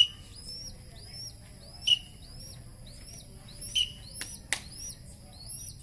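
A young falcon calling: a steady run of short high chirps, each rising then falling, about three a second, with a louder, sharper call about every two seconds. Two sharp clicks come about four and a half seconds in.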